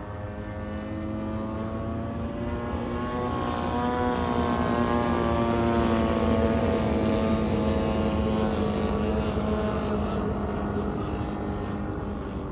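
Radio-controlled model aircraft's engine running steadily as it flies past, growing louder toward the middle and then fading off.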